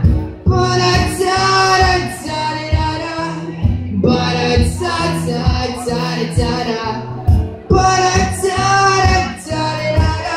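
A pop song performed live: singing in three long held phrases over strummed acoustic guitar chords.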